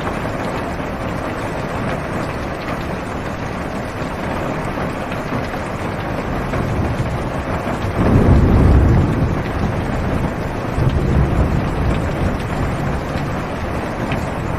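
Steady heavy rain on a car's roof and windows, heard from inside the car. A low thunder rumble swells about eight seconds in and comes again about three seconds later.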